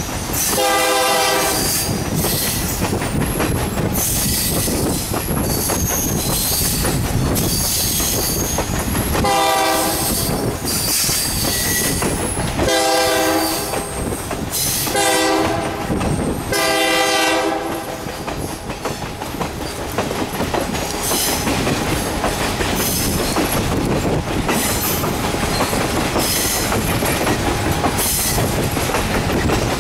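Passenger train coach rolling along the track, a steady rumble of wheels on rail with wind at the open window. The locomotive up ahead sounds five signal blasts of a second or so each: one near the start, then four in close succession about a third of the way in.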